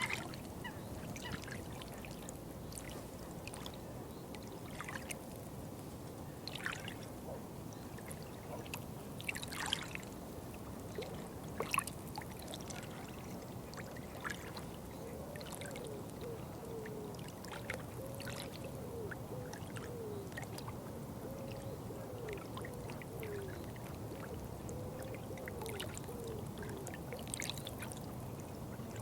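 Water trickling and splashing steadily, with scattered small splashes and drips. From about halfway, a faint wavering call repeats several times over it.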